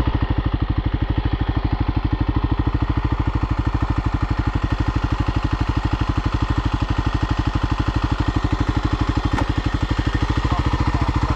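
Small off-road engine idling steadily with an even, rapid pulse.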